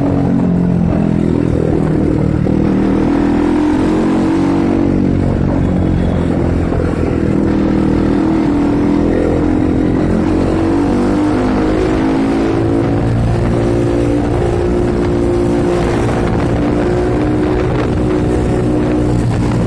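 Bajaj Pulsar 200NS's single-cylinder engine running under way on the road, its pitch rising and falling several times with throttle and gear changes, heard from on the bike.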